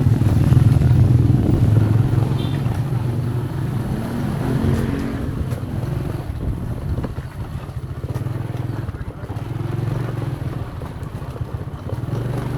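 Motorcycle engine running, loudest in the first couple of seconds and then lower, with faint voices briefly around five seconds in.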